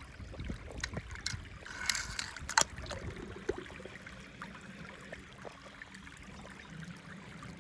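Quiet handling of toys: scattered small clicks and taps of plastic toy cars and track pieces, the sharpest about two and a half seconds in.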